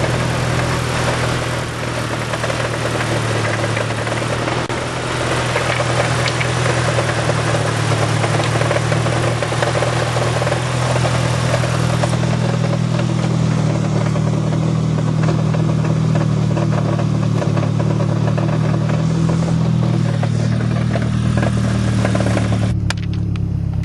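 A 1990 Nissan 240SX's 2.4-litre four-cylinder engine idling steadily on a cold start with the clutch let out. The car has a knocking noise that was traced to a loose flywheel.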